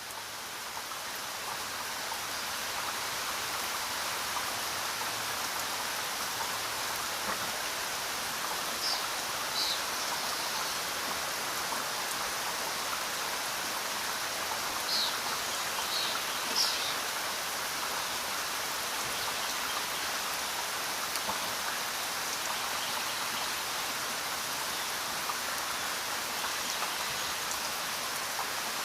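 Steady rain falling, swelling in over the first few seconds and then holding even. A few brief high-pitched sounds stand out in the middle.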